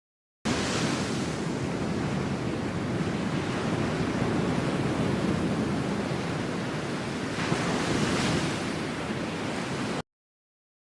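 A steady rushing noise, like surf, that starts abruptly, swells briefly near the end and cuts off suddenly.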